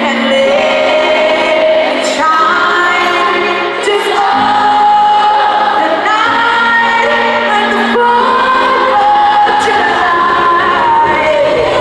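Live pop song in an arena: a female lead vocal singing over the band and backing track, with the hall's reverberation.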